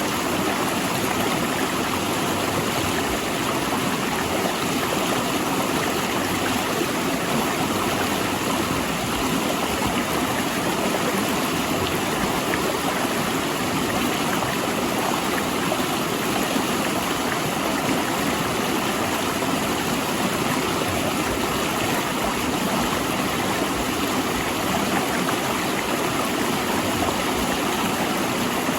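River water rushing and splashing steadily over and between large rocks.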